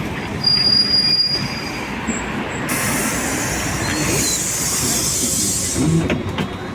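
MAZ-215 bus cabin noise, with the engine and road rumble throughout. High, thin brake squeals come in the first second or so. A hiss of compressed air follows for about three seconds from just under 3 s in.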